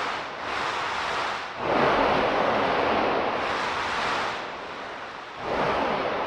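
Sea waves washing onto the shore: a rushing surf that swells sharply twice, about a second and a half in and again near the end, and ebbs between.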